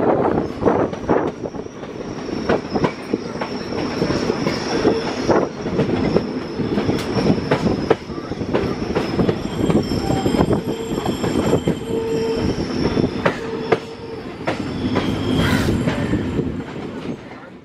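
Railway passenger coach running along the track, heard from its open doorway: a steady rolling rumble with irregular clicks and knocks of wheels over rail joints, and a thin high wheel squeal running through it.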